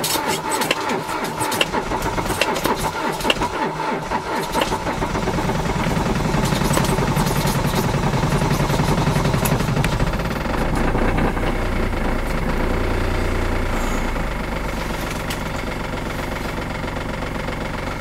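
Small car's petrol engine cold-started at −29 °C: the starter cranks with uneven, stumbling firing for about four to five seconds before the engine catches. It then runs louder for a few seconds and settles to a steady idle.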